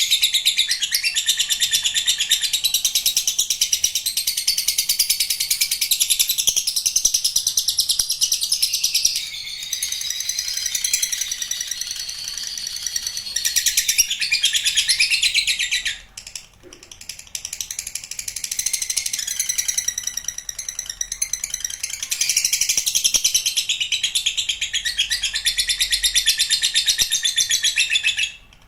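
Lovebird singing a long 'ngekek': a rapid, high-pitched chattering trill, held almost without a break, with one short pause about sixteen seconds in, stopping just before the end.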